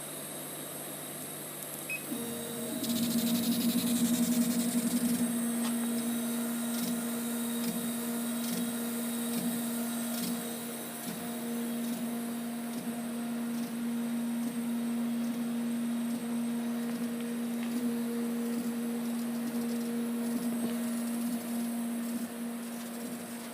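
Kamach 1290 CO2 laser cutting machine starting up and running a test job. A steady hum sets in about two seconds in, with a louder hiss for the next couple of seconds, then faint regular ticks about once a second over the hum.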